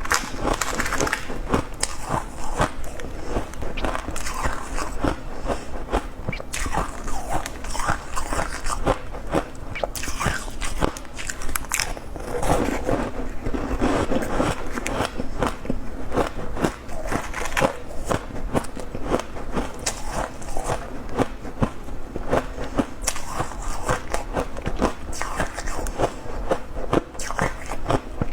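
A person biting and chewing crunchy shaved and refrozen ice: rapid, irregular crunches follow one another without a break.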